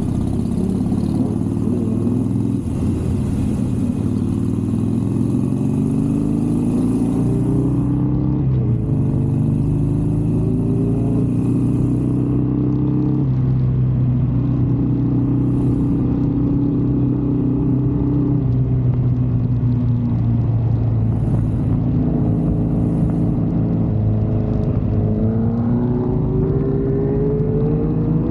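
Superbike engine running under load. Its pitch climbs over the first several seconds, holds steady through the middle, then climbs again near the end.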